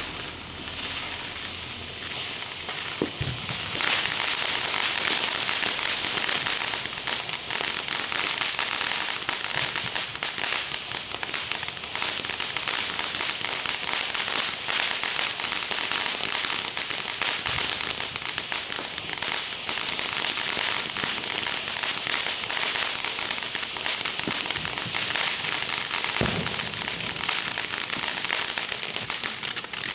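Fire crackling and popping densely and continuously, as the plastic of a traffic signal burns inside a microwave, with a louder pop about three seconds in and another near the end.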